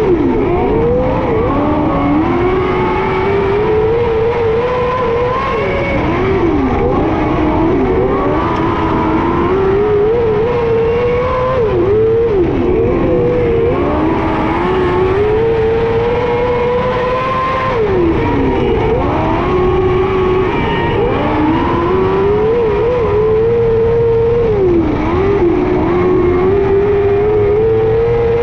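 Micro sprint car's motorcycle-derived engine at racing speed, revs climbing along each straight and dropping off sharply into each turn, over and over like laps of a short oval.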